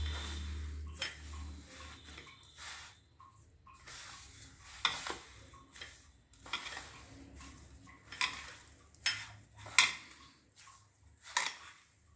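Chhana dough being kneaded by hand in a metal plate for langcha: soft working sounds with irregular sharp clicks and knocks against the plate.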